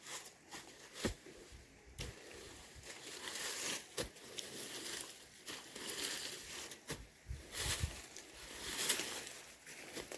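Irregular rustling and crinkling, with a few sharp clicks or snaps scattered through it.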